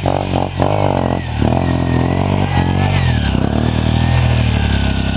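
Trail motorcycle engine running close by, blipped on the throttle several times in the first second and then revving up and down as it is worked through an obstacle.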